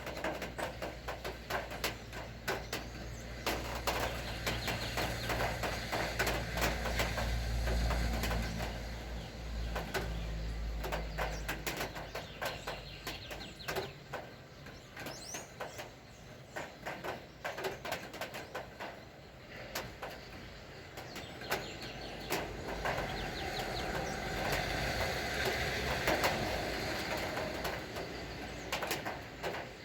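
Rain falling, with many sharp drips striking nearby surfaces. A vehicle's low engine hum passes during the first dozen seconds and fades out.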